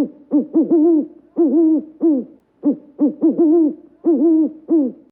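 Pigeon cooing: a run of low coos in about four phrases, short notes leading into longer, bending ones.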